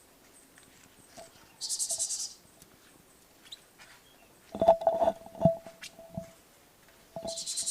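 A small songbird chirping in short, rapid, high trills, twice, with a cluster of sharp knocks and clicks between them that are the loudest part.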